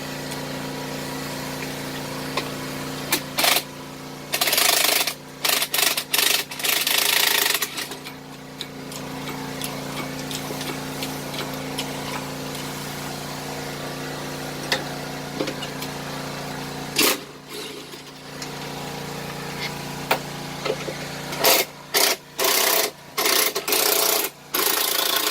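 Impact wrench running in short bursts of rattling, several in a row, a few seconds in and again near the end, as bolts are worked loose on a Ford Focus engine being pulled. Under it a steady machine hum runs and stops a few seconds before the end.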